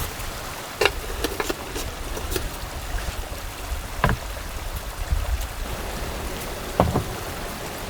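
Steady rushing of a mountain stream, with a few scattered light knocks and clicks, the one near the end lower and heavier.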